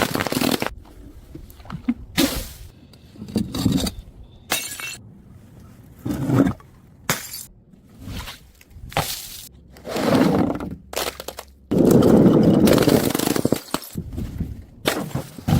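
Glass bottles breaking, one crash after another, about a dozen times, each with a brief crunch and tinkle of shards. The longest and loudest is a drawn-out crunching smash near the end.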